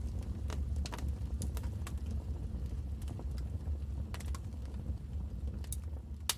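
Wood fire in a fireplace crackling, with irregular sharp pops over a low, steady rumble of the flames. One louder pop comes near the end.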